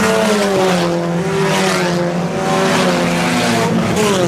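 IMCA Sport Compact race cars' four-cylinder engines running hard as several cars circle the dirt oval together, the engine notes overlapping, with some pitches sliding down near the end as drivers lift off.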